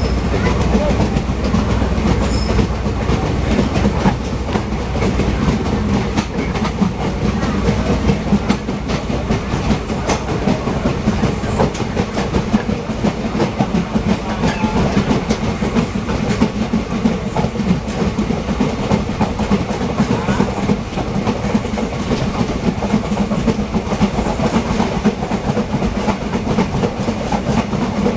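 Passenger train hauled by a WAP-7 electric locomotive running steadily, its wheels clattering over the rail joints in a continuous loud rumble.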